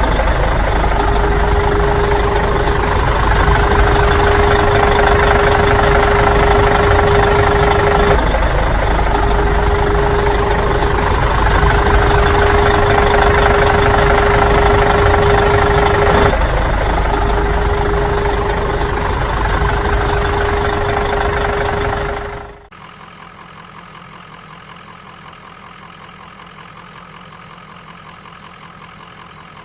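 Engine running steadily, loud, with a steady hum and a pattern that repeats about every eight seconds like a looped sound. About 22 seconds in it drops abruptly to a much quieter steady engine sound.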